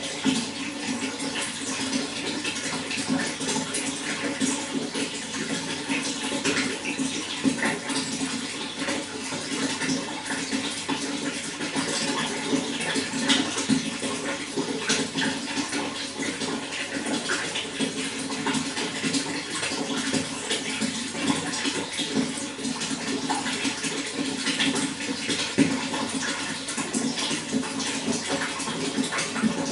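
Running water flowing steadily, a continuous splashing rush with many small scattered splashes and no pauses.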